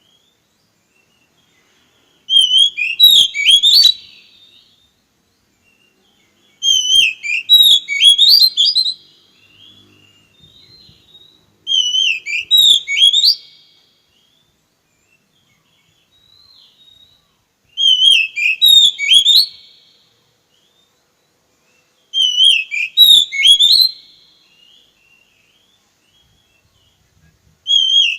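Oriental magpie-robin (kacer) singing: a short phrase of quick whistles and chirps, repeated about every five seconds with silence in between.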